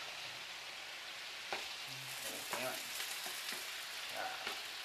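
Meatballs frying in a pan on the stove: a steady sizzle, with a sharp tap about a second and a half in.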